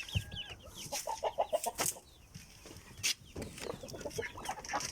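Adler silver chickens clucking and peeping, with a couple of sharp knocks.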